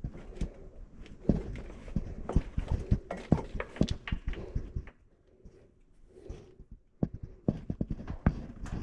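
Irregular knocks and clunks of hand tools and metal parts being handled, with a quiet spell of about two seconds in the middle.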